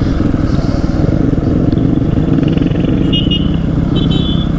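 Dirt bike engine running at fairly steady revs while riding. A few short high chirps sound about three to four seconds in.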